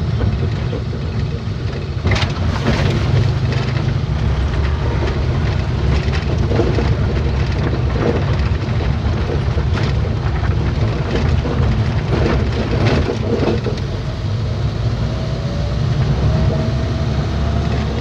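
Steady low rumble of a vehicle driving, heard from inside: engine and tyre noise, with a few short knocks.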